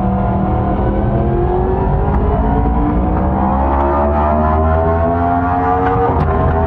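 Yamaha YZF-R1's crossplane inline-four engine and exhaust under steady throttle, its pitch rising slowly and evenly as the bike gains speed in one gear.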